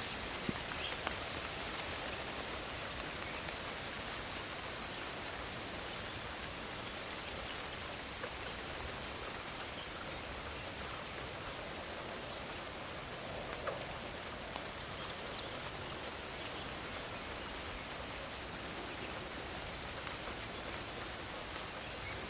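Steady rain falling in a forest, an even hiss with scattered louder drops ticking through it.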